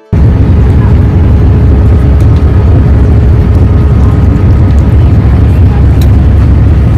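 Loud, steady low rumble of a moving vehicle, with a faint steady whine above it.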